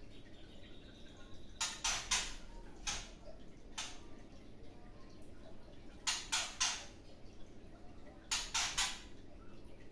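Caged songbird giving short, harsh, rasping calls, mostly in quick runs of three with a few single notes between.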